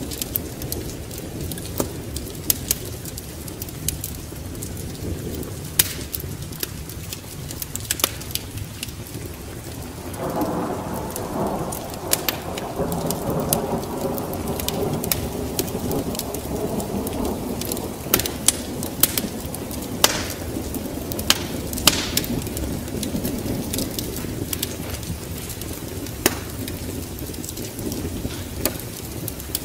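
Steady rain with a long roll of thunder that swells about ten seconds in and rumbles on for over ten seconds before fading, over sharp crackles and pops of a wood fire throughout.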